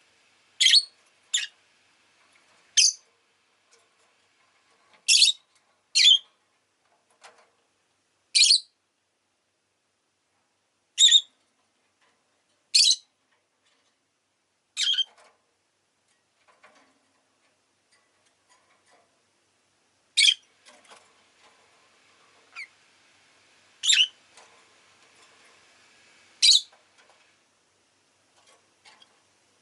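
Peach-faced lovebird giving short, sharp, shrill chirps one at a time, every one to three seconds, with quiet gaps between.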